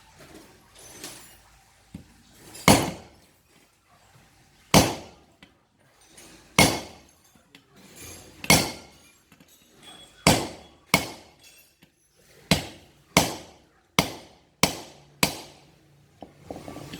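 A steel hammer strikes a punch to drive out the pin holding an agricultural machine's cutting blade, about eleven sharp metallic blows with a short ring. The blows come about two seconds apart at first, then faster toward the end as the pin works loose.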